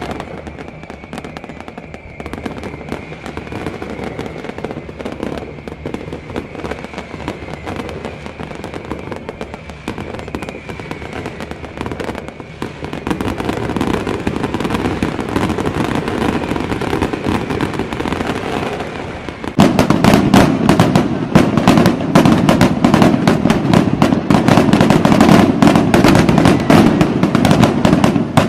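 Fireworks going off in rapid succession, a dense crackling of many small bangs. About twenty seconds in it suddenly becomes much louder, a continuous barrage of crackles and bangs.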